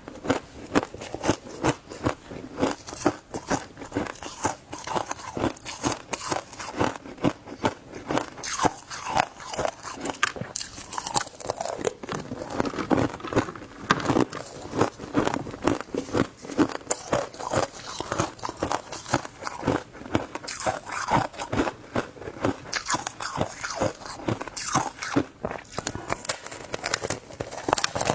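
Shaved ice being bitten and chewed close to the microphone: a continuous run of dense, irregular crunches, several a second.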